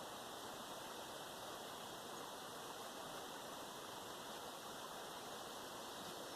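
Low, steady hiss of outdoor background noise, even throughout, with no distinct sounds and no audible breaths.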